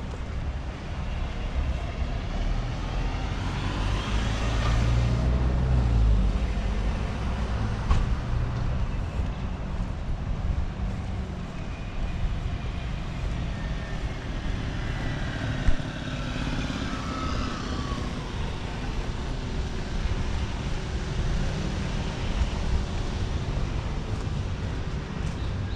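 Street traffic: motor vehicles passing with a steady rumble, one heavy vehicle loudest about five seconds in and another engine whine falling in pitch as it passes later on.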